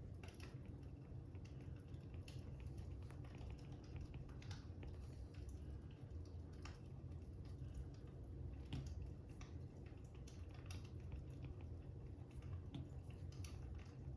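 Quiet wood fire crackling: irregular small pops and snaps over a low steady rumble.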